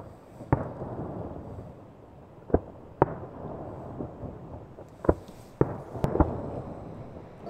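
Aerial fireworks shells bursting: about eight sharp bangs, mostly in pairs about half a second apart.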